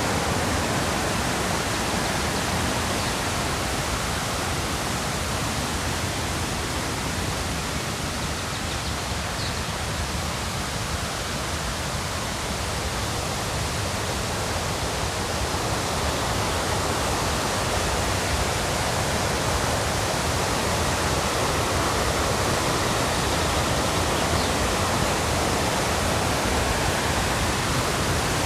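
River rapids rushing: a steady, dense roar of white water, easing slightly in the middle and growing louder again toward the end.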